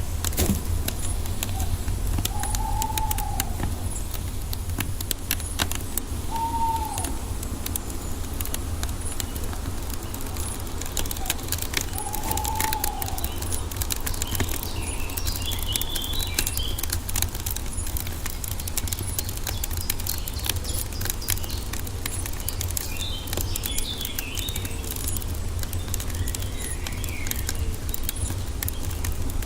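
Wood fire crackling with dense sharp pops over a steady low rumble of flames. A bird gives a short arched call several times, and fainter high chirps come in over the second half.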